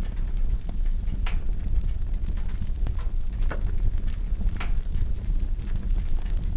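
Wood fire burning in a fireplace: a steady low rumble of flames with scattered crackles and a few louder pops.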